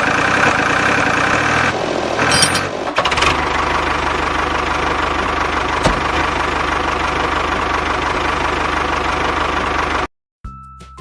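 Tractor engine running steadily with a knocking diesel-like clatter and a low even throb. It cuts off abruptly near the end, and music begins.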